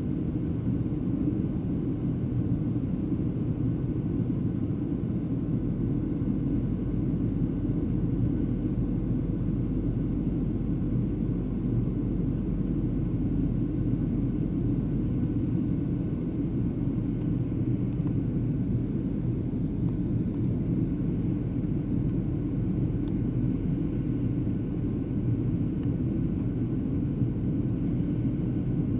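Airliner cabin noise: a steady low rumble of engines and airflow, heard from a passenger seat while the aircraft flies a holding pattern.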